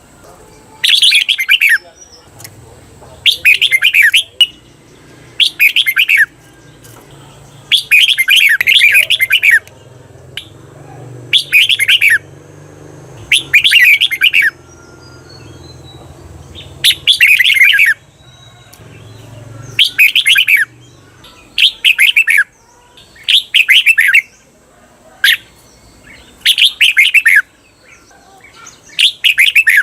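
Red-whiskered bulbul singing its 'double' song (เบิ้ล): about a dozen short, bright, loud warbled phrases, one every two seconds or so, with short pauses between them. A faint low hum lies underneath.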